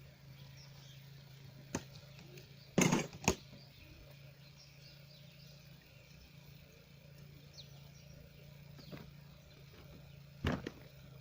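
A few sharp knocks and clatters, the loudest a close pair about three seconds in, over a steady low hum.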